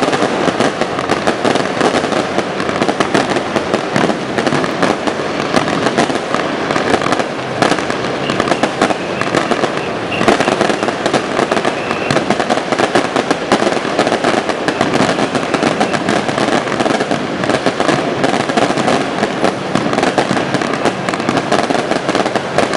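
Firecrackers and aerial fireworks going off in a dense, unbroken barrage of rapid pops, cracks and bangs.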